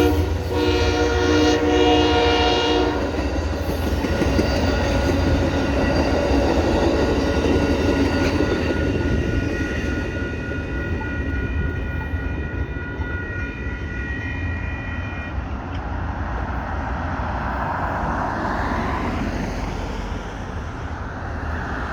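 Train horn sounding a chord of several notes, which cuts off about three seconds in. Then comes the steady rumble of the train going by, with fainter horn-like tones lingering until about fifteen seconds in.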